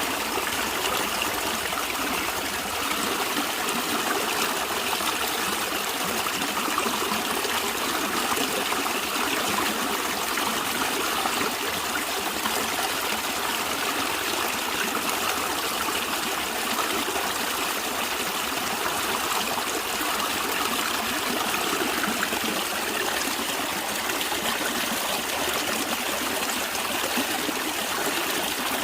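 Stream water running and trickling, a steady rush with no change.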